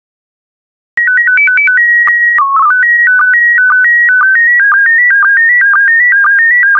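Slow-scan TV (SSTV) image signal in PD120 mode starting up after about a second of silence. A quick run of stepping beeps and a held tone announce the mode, then the image tones begin: a steady electronic warble of shifting pitches with a short low blip about twice a second marking each pair of scan lines.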